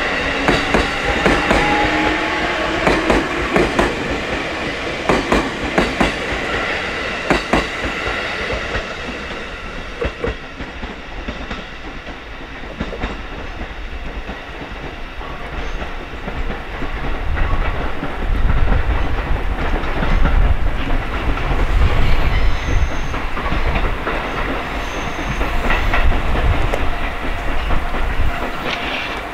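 E653 series electric multiple-unit express pulling out and accelerating. Its traction motors whine, rising in pitch at the start, and the wheels clack rapidly over rail joints, the clacks thinning out as the train draws away. A low rumble swells in the second half.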